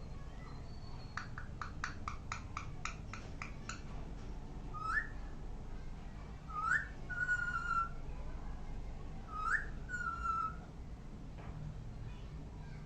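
Pet parrot whistling: three short rising whistles, two of them followed by a longer level whistle, after a quick run of about a dozen clicks in the first few seconds.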